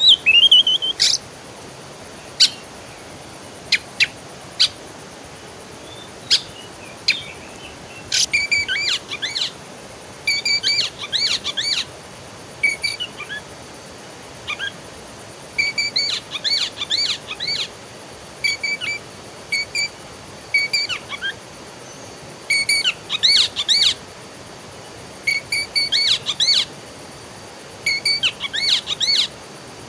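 A songbird singing, quick chirping phrases repeated every couple of seconds, over a steady faint hiss.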